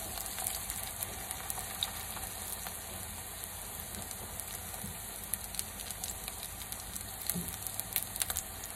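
Corn-flour arepas frying in hot oil in a skillet: a steady sizzle with many small crackles and pops.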